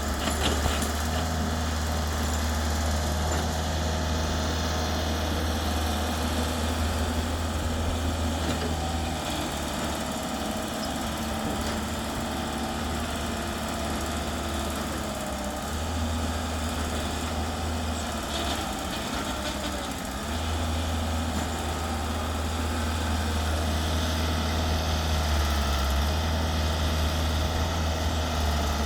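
Excavator's diesel engine running steadily, its low note easing off for a while mid-way and picking up again toward the end as the machine works under varying load.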